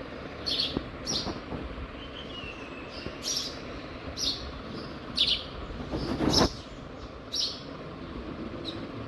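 A small bird chirping in short, sharp, high chirps roughly once a second, with one longer falling whistle about two seconds in, over a steady background hiss. A louder rustling noise comes about six seconds in.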